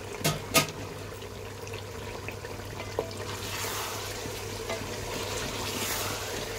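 Chicken masala bubbling and sizzling in oil in a metal cooking pot, with two sharp knocks in the first second. From about three seconds in, a wooden spoon stirs the pot and the sizzle grows louder as the masala fries down and releases its oil.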